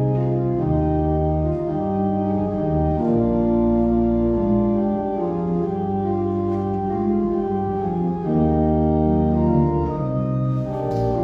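Organ playing a hymn tune in held chords over a low bass line, the chords changing about once a second.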